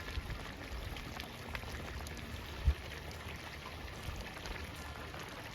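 Campfire crackling with many small scattered pops, over the bubbling of a simmering hot pot. A single dull thump comes about two and a half seconds in.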